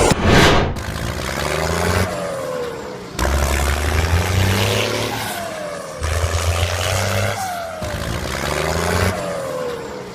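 Vehicle engine sounds in short, abruptly cut segments: a low steady engine hum in some stretches, and a falling whine that recurs about four times.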